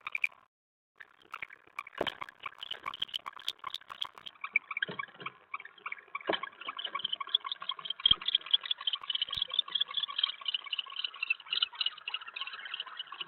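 Owls in a nest box giving rapid, raspy chittering calls that grow louder about six seconds in, with a few sharp clicks and scratches mixed in, typical of an owl arriving with prey.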